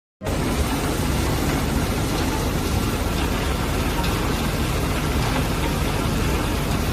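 A machine's engine running steadily under a loud hiss. It starts suddenly just after the beginning and cuts off abruptly at the end.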